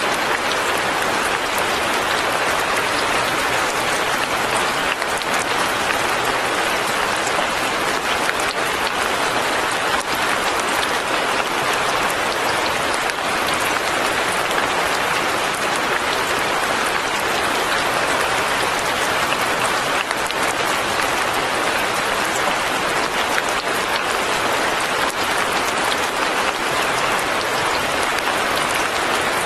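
Light rain falling steadily, an even hiss of many small drops that does not change.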